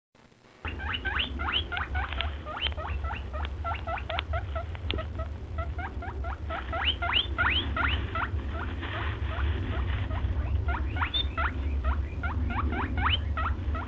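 Rabbit squeaking: a rapid run of short, high, rising squeaks, several a second, over a steady low rumble.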